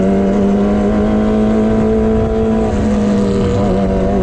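Kawasaki ZX25R's inline-four engine with an aftermarket racing exhaust, held at steady revs while riding along, with wind noise underneath.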